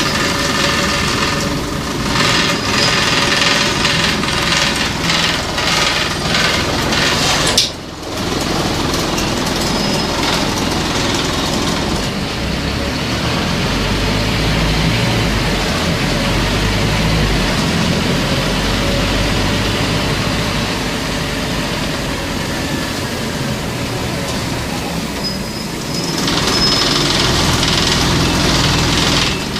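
Scania CN270UB city bus under way: its diesel engine running with road and body rattle, a short break in the sound about eight seconds in, and a deeper engine rumble in the middle stretch.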